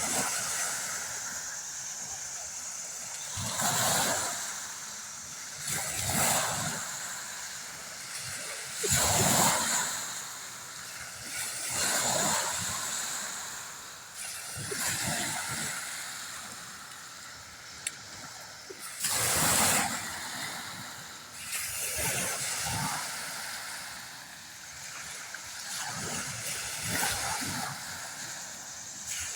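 Vehicles passing by on a road, a swell of tyre hiss rising and fading every two to four seconds over a steady background hiss.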